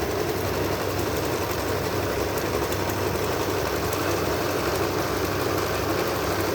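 Janome sewing machine running steadily at speed: a continuous mechanical whirr over a low hum.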